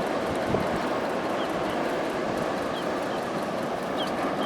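Steady rush of breaking ocean surf, with several short faint bird chirps over it.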